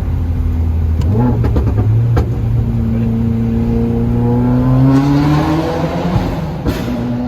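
Car engine running loudly, its pitch stepping up about a second in and then climbing slowly as the revs rise, dropping back briefly near the end, with a few sharp cracks early on.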